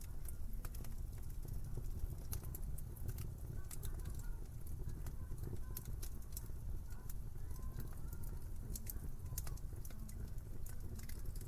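Wood fire in a fireplace crackling: a steady low rumble with frequent sharp pops and snaps at irregular intervals.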